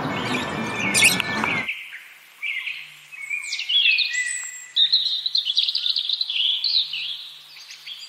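Birds chirping over a dense wash of noise that cuts off abruptly about a second and a half in. After that a small songbird gives quick, high chirps and twittering phrases.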